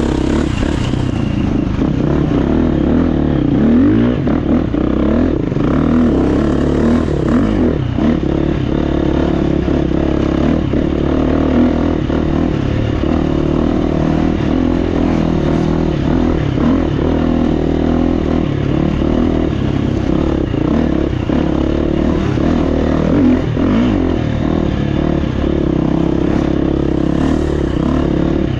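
Four-stroke single-cylinder engine of a GasGas EX350F dirt bike running on the trail, its revs rising and falling steadily with the throttle, over a constant clatter and knocking from the bike on the rough ground.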